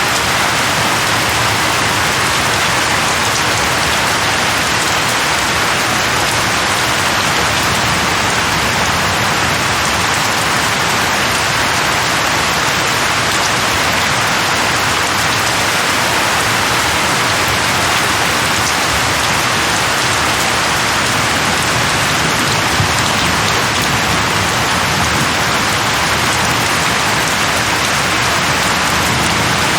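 Steady, heavy rain falling and pattering on a surface, an even unbroken hiss of drops.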